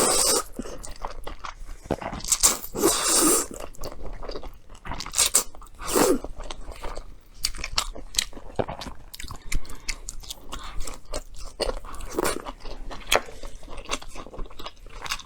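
Close-miked eating: a person biting and chewing food with wet clicks and crunchy bites, a few louder bites standing out among steady mouth sounds.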